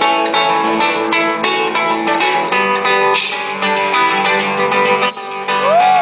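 Instrumental break of a live song: acoustic guitar strummed in a steady, driving rhythm with the band. Near the end there is a short break, then a short rising, sliding note.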